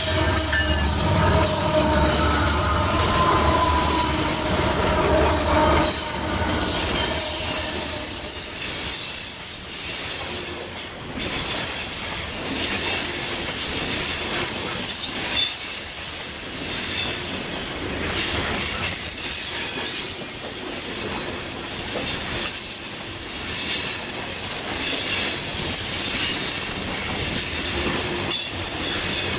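A loaded coal train passes close by. A diesel locomotive's engine hum fills the first few seconds, then loaded coal hopper cars roll past with a steady rumble of wheels on rail and high-pitched squeals that come and go.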